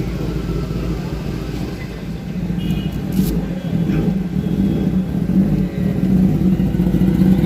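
Motorcycle engine running at road speed, a steady low drone that grows louder over the last few seconds.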